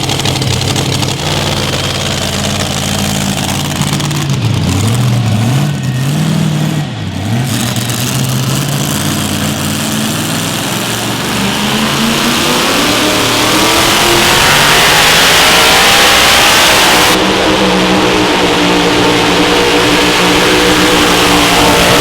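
Pulling-competition engine revving in short blips, then winding up steadily and running loud and hard under load, as on a pull down the track.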